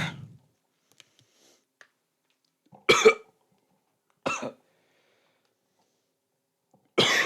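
A person coughing four times in short, separate bursts, with pauses of a few seconds between.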